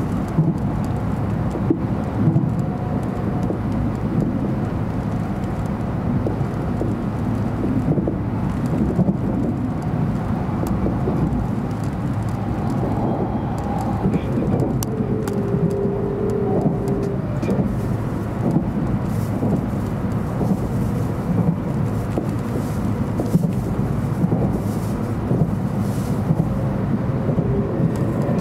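Cabin noise inside a moving JR Central 700 Series Shinkansen: a steady low rumble of the running train with scattered short clicks, and a brief steady whine about halfway through.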